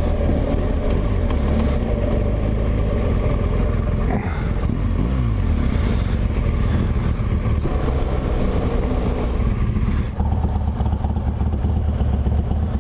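Motorcycle engine running on the move, picked up by a helmet-mounted mic. The engine note dips and glides in pitch about four seconds in and shifts again near the end.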